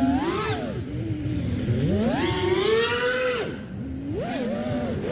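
FPV quadcopter motors whining, the pitch rising and falling with throttle: a quick rise and drop at the start, a long climb to a high held pitch that drops away after about three and a half seconds, and a short warble near the end.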